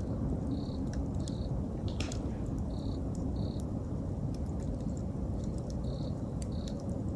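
Campfire burning with a steady low rush and scattered sharp crackles and pops, the largest about two seconds in. An autumn insect chirps over it in pairs of short high notes, a pair about every two to three seconds.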